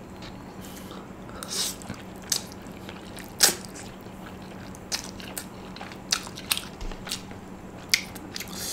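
A person eating instant noodles close to the microphone: wet chewing with scattered smacks and mouth clicks, the sharpest about three and a half seconds in. A faint steady low hum runs underneath.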